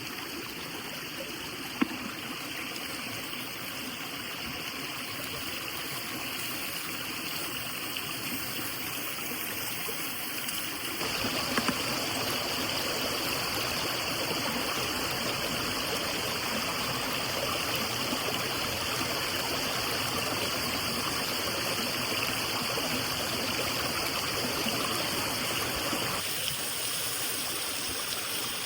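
Steady rush of running water, louder from about a third of the way in and quieter again near the end, with a couple of brief sharp ticks.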